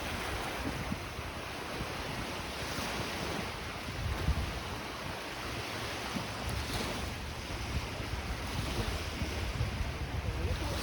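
Wind buffeting the microphone in gusts over the steady wash of small lake waves breaking on the shore.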